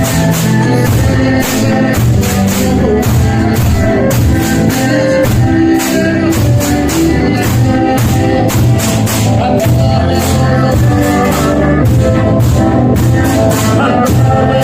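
Pastellessa music: bottari percussion on barrels, vats and sickles beating a fast, steady rhythm under a singing voice.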